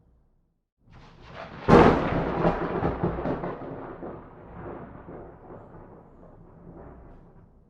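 A single thunderclap: a low rumble builds, a sharp loud crack comes just under two seconds in, and a long rolling rumble fades away over the next several seconds.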